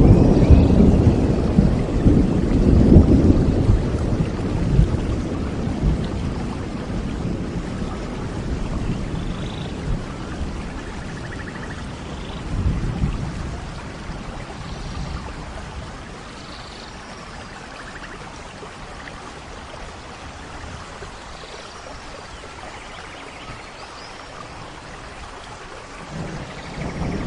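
Rain falling with rolling thunder. A deep rumble at the start dies away over the first dozen seconds, a shorter rumble comes about halfway, then a steady rain hiss, and thunder builds again near the end.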